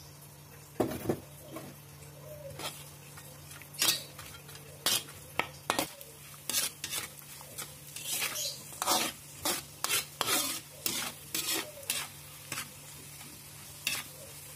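Small dried anchovies (ikan teri) frying in oil in a wok, sizzling faintly, while a metal spatula stirs them, clinking and scraping against the wok in irregular strokes, most often in the middle of the stretch.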